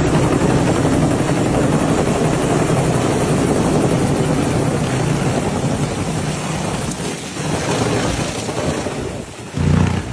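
Helicopter rotor and engine running loud and steady, easing off from about seven seconds in, with a brief loud low thump near the end.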